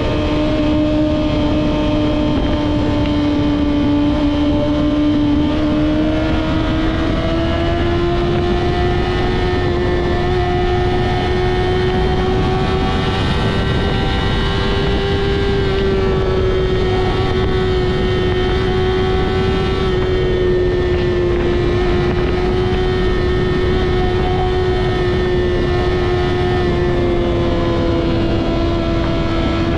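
Yamaha R6's inline-four engine breathing through a Two Brothers full-system exhaust, running at steady high revs under way, its pitch drifting only slightly. A rush of wind noise sits under it.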